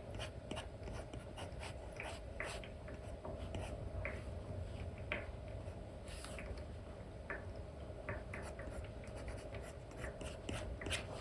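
Apple Pencil tip with a replacement nib scratching and tapping on a paper-like screen protector, in short, irregular strokes, over a steady low hum.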